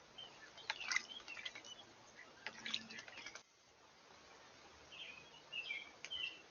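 Small birds chirping in short high calls, with brief clusters of sharp clicking about a second in and again near the middle.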